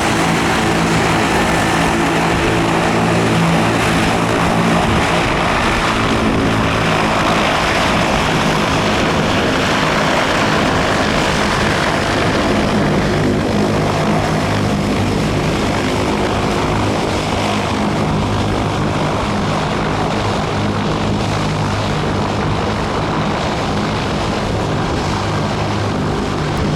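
A propeller airplane's engine running loud and steady, with a constant droning tone and a broad rush of propeller noise over it.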